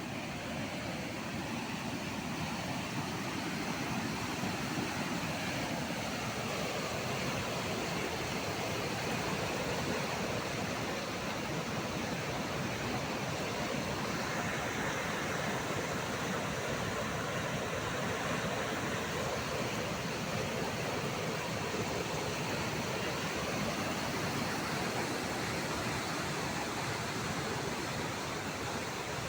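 Rushing water, a steady even roar of a river or waterfall with no breaks.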